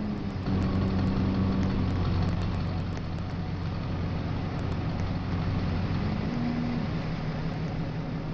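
Vehicle engine idling steadily, with a low, even hum that gets a little louder about half a second in.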